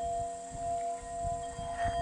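Tibetan singing bowl ringing with a sustained steady tone and several higher overtones, over an uneven low rumble.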